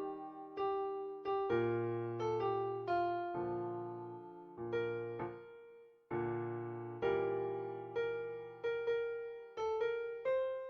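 Electronic keyboard with a piano sound playing a hymn tune at a slow practice tempo: single melody notes struck about every half second to a second, each dying away, over held low bass notes.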